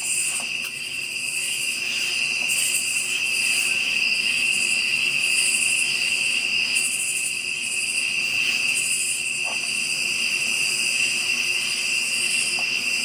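Chorus of night insects, crickets, trilling steadily at a high pitch, with a still higher buzz that pulses on and off every second or so.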